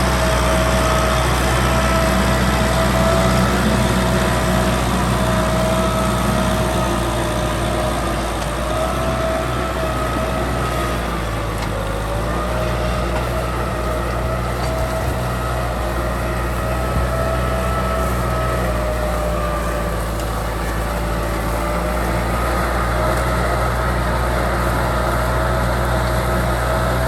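Kubota M6040 SU tractor's diesel engine running steadily under load while ploughing, a continuous low rumble with a whine above it that drifts slightly up and down in pitch.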